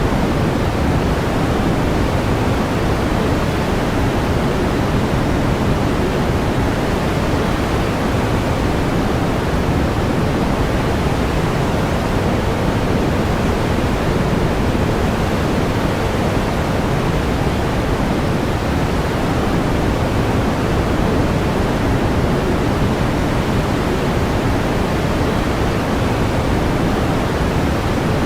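Steady pink noise: an even, unchanging hiss weighted toward the low end, with no rhythm or change.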